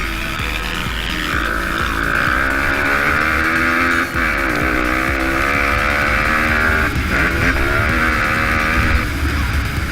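Pit bike engines running and revving, their pitch falling and rising as they pass.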